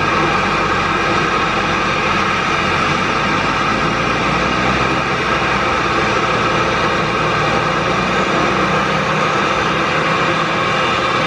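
Boeing 737-800's CFM56 jet engines running loud and steady, a dense hiss with several steady whining tones over it.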